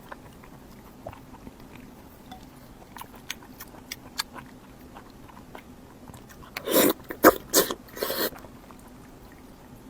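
Close-miked eating sounds: chewing with small wet mouth clicks, and a few louder bites in quick succession about two-thirds of the way through.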